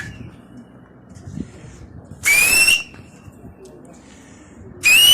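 Loud, shrill whistle blasts, each a held high note about half a second long, one about two seconds in and another near the end, the last dropping in pitch as it stops. This is a pigeon fancier whistling to keep his flying pigeons up.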